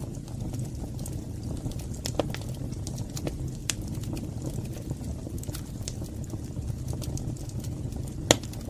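Fire burning in a fireplace: a steady low rumble of flames with scattered crackles and pops, the sharpest pop near the end.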